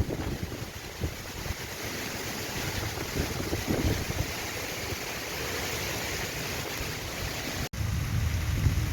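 Heavy storm rain falling with a steady hiss, while gusting wind rumbles on the microphone. The sound drops out briefly about three-quarters of the way through, and the wind rumble grows stronger after that.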